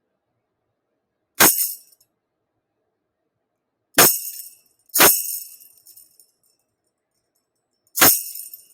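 Tambourine struck sharply four times at uneven intervals, about a second and a half in, at four and five seconds, and again near the end, each hit a quick jangle of the jingles that dies away within a second.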